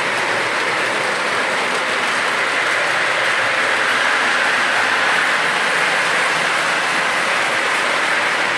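Model train running along its track: a steady whir from its small motor and wheels on the rails.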